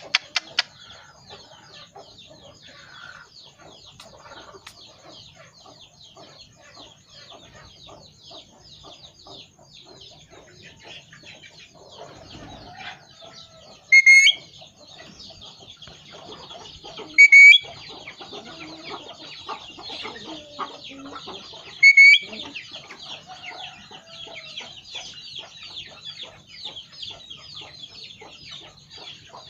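Pet parrot giving short, loud, shrill whistling calls three times over a steady background of busy bird chirping and chatter.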